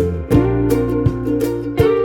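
Background music: a light instrumental of plucked strings over a bass line, with a steady beat of about three strokes a second.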